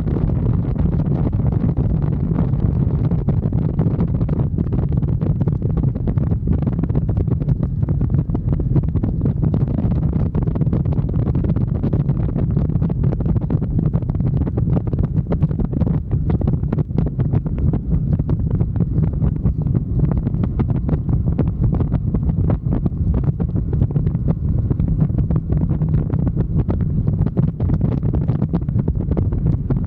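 Wind buffeting the microphone of a moving motorcycle, a steady low rumble with constant gusty crackle over it, the bike's running and road noise buried underneath.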